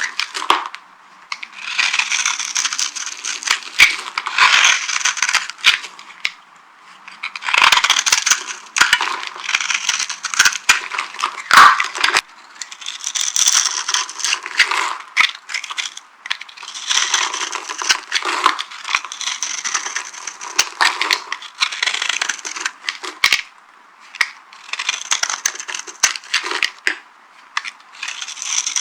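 Dry soap crunching and crackling as it is crushed, in runs of a few seconds with short pauses between.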